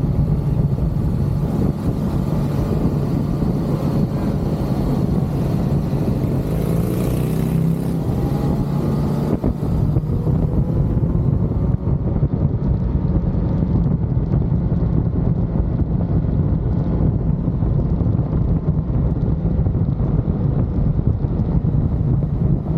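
Motorcycle under way: engine running steadily with heavy wind rush on the microphone, its pitch rising and falling a few seconds in.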